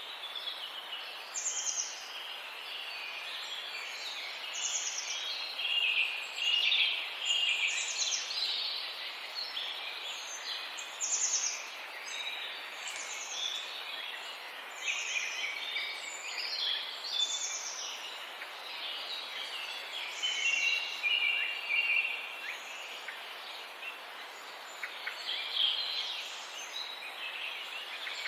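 Birds calling together: short high calls repeat about every second and a half over a busy, constant chatter of other calls.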